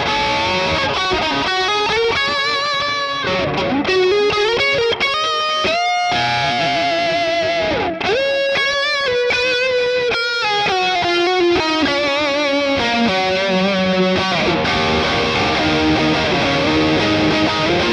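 ESP LTD ST-213 electric guitar played with a lightly distorted tone: single-note lead lines with string bends and wide vibrato on held notes, moving into denser chord playing about three quarters of the way through.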